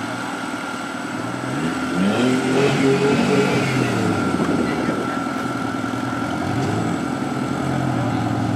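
Rock-crawler buggy's engine revving under load, climbing in pitch about two seconds in and again near the end.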